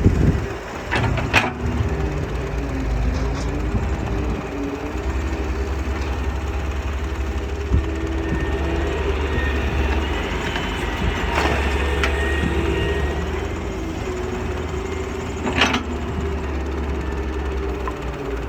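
Doosan DX160 excavator running steadily, with a low engine drone and a higher tone above it that wavers in pitch. A few sharp knocks or cracks come through: two about a second in, and two more later.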